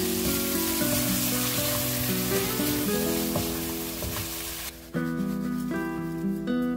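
Squid, onion and chilli stir-fry sizzling in a hot frying pan as it is tossed with a wooden spatula. The sizzle cuts off suddenly about two thirds of the way through, leaving background music.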